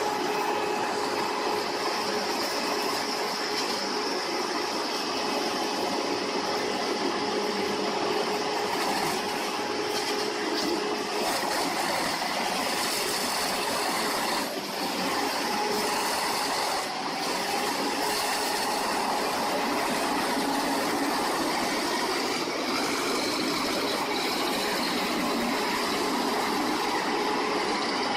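Large industrial wood chipper running steadily: a constant mechanical drone with steady humming tones and a high whine over it.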